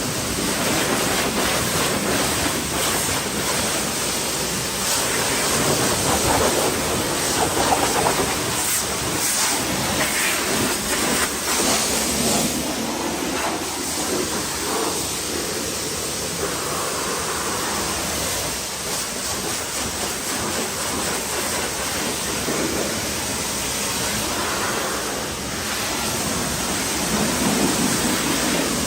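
A pressure washer jet spraying water onto a car: a steady hissing spray whose texture changes as the jet moves over the bodywork.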